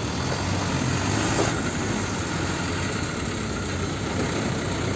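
Diesel engine of a Hino light fuel tanker truck running as it pulls slowly past, over steady road traffic noise.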